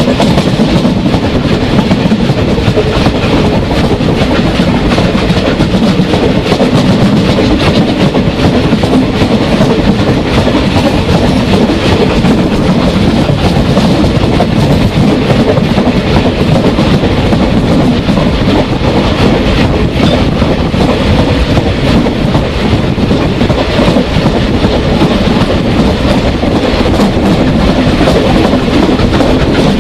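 Train of wagons behind a South African Railways Class 24 2-8-4 steam locomotive running along the line, its wheels rolling on the rails with a loud, steady rumble.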